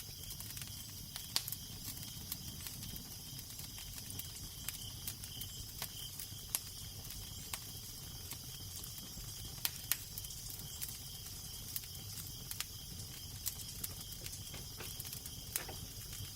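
Wood fire crackling, with irregular sharp pops and snaps, over a steady low rumble of wind and a soft hiss.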